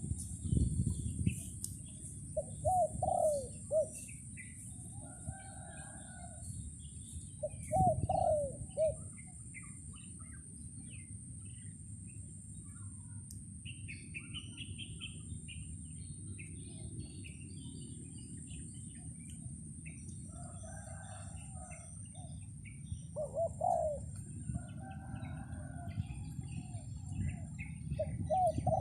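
A decoy dove cooing in short phrases, a few times across the stretch, answered by small birds chirping, over a steady low wind rumble and a thin high insect-like whine.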